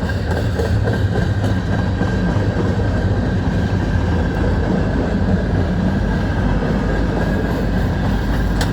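Freight cars of a passing freight train rolling by: a steady rumble and rattle of steel wheels on the rails.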